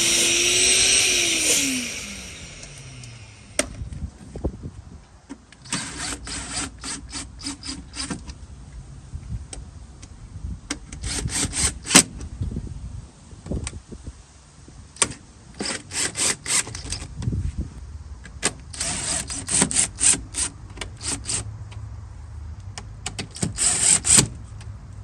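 Hand tools at work on a car seat install: about five short bursts of rapid sharp clicking and rattling, spread through the stretch. It opens with a loud hissing sweep whose tone falls over the first two seconds.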